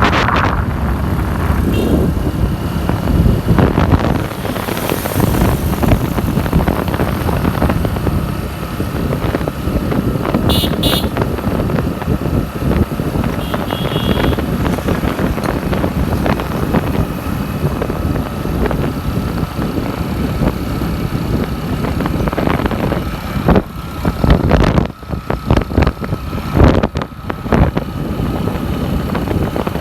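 Motorcycle running on a ride, with steady road noise. The noise drops out briefly several times near the end.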